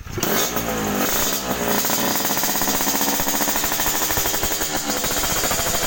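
Two-stroke motorcycle engine running through a racing exhaust, with a rapid, pulsing sound. It revs up and back down in the first two seconds, then runs steadily at a raised idle.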